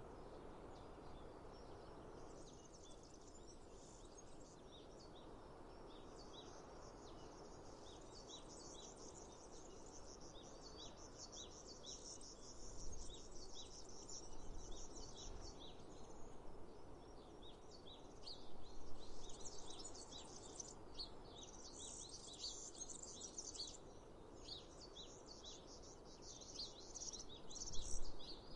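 Small birds chirping and twittering, many short high calls coming thicker and louder after the first several seconds, over a steady low outdoor hiss.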